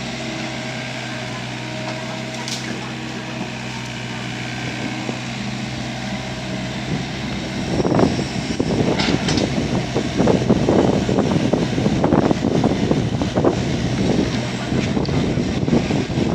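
Diesel excavator engine running steadily with a low hum. About halfway through, louder, irregular knocking and rattling begins as the machine works.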